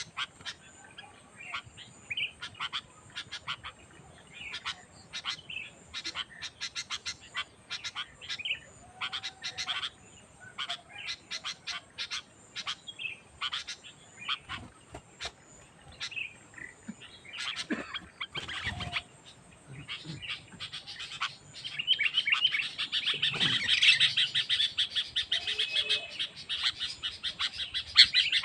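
Sooty-headed bulbul (kutilang) calling repeatedly in short, bright chirps and phrases. About two-thirds of the way through, the calling turns into a denser, louder run of chattering.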